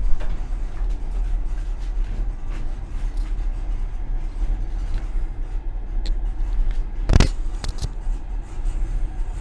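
Passenger train car running along the track, heard from its rear vestibule: a steady low rumble with scattered light clicks from the wheels. About seven seconds in there is a loud single clack of the wheels over the rails, followed by two smaller ones.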